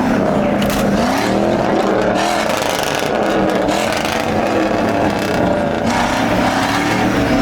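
Vehicle engine revving, its pitch rising and falling again and again over a steady rushing noise.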